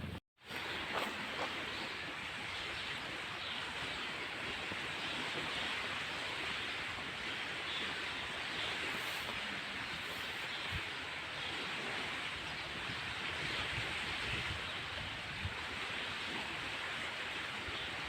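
Steady, even outdoor rushing noise with no distinct events, broken only by a brief cut to silence right at the start.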